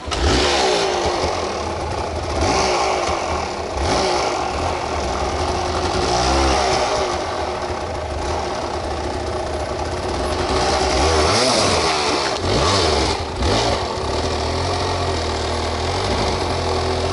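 Off-road motorcycle engine running under changing throttle, its pitch rising and falling again and again as it revs up and drops back. It cuts in suddenly at the start.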